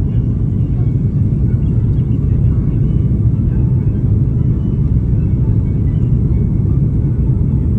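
Steady low rumble inside the cabin of an Airbus A330-300 airliner: the Rolls-Royce Trent 700 engines and the rush of air around the fuselage, even and unbroken.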